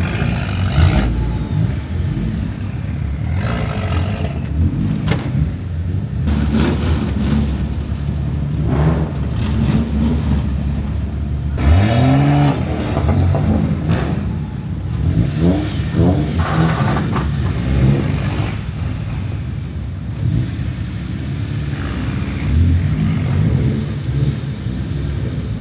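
Car engines running in a slow-moving queue, a steady low rumble with several revs that rise and fall, the clearest about twelve seconds in and again a few seconds later.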